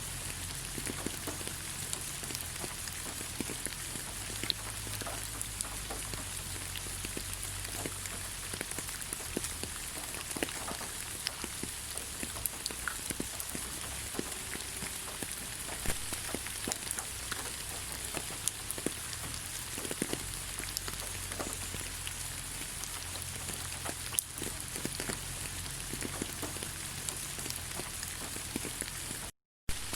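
Rain falling on leaves: a steady hiss with scattered single drops ticking. The sound cuts out for a moment just before the end.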